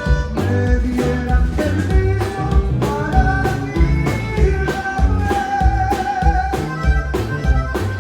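Live Tejano band playing: accordion and strings over bass and a steady drum beat, with long held notes from about three seconds in.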